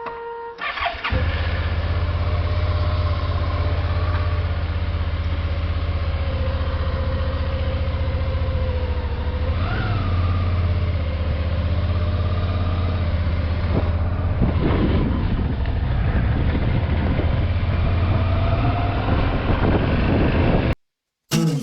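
Adventure motorcycle engine running steadily, with one short rev about halfway through. It starts suddenly near the beginning and stops abruptly just before the end.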